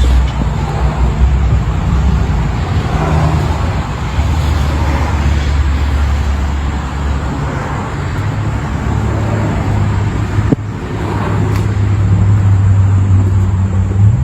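Motorcycle engine of a custom chopper running loudly, its low note stepping up and down in pitch as it is revved. There is a sudden break about ten and a half seconds in, after which the engine runs on at a steadier, slightly higher note.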